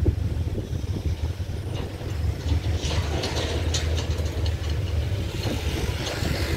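Diesel-hauled train pulling away, a steady low rumble of wheels on rail fading into the distance, with a few light clicks and rattles about halfway through.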